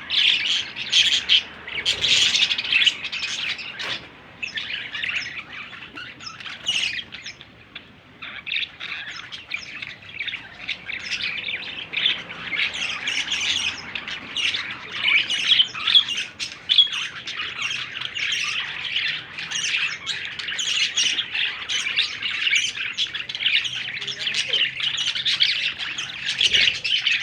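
Young budgerigars chattering in a dense run of squawks and chirps, which thins out for a few seconds between about four and eight seconds in.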